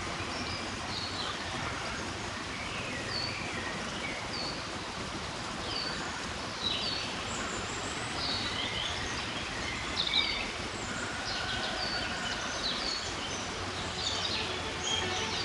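Several wild birds calling: many short, high chirps and whistled notes, scattered and overlapping, over a steady background hiss.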